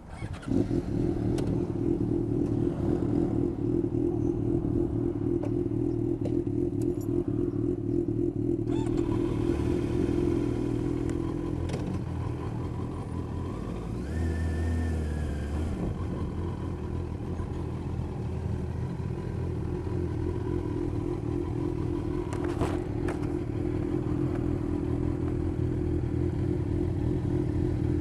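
Motorcycle engine running steadily as the bike rides along, loud from about half a second in, its note changing around ten seconds in and again a few seconds later.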